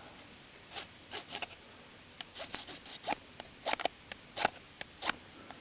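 A fire-lighting tool struck over and over in short, sharp, scraping strokes at an uneven pace, not catching.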